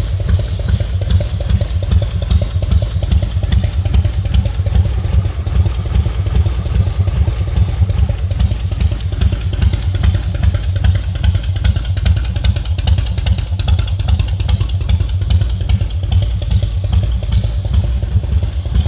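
Yamaha XV1600 Road Star's air-cooled V-twin engine idling with a steady, fast, even throb.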